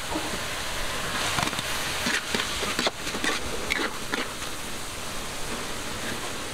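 Pork and cabbage sizzling in a metal wok, a steady frying hiss, with a spatula scraping and clicking against the pan several times as it is stirred.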